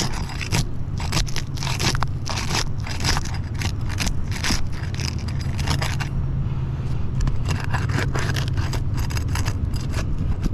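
Repeated scraping and crackling of asphalt roof shingles being handled and lifted, the strokes thickest in the first half, over a steady low rumble.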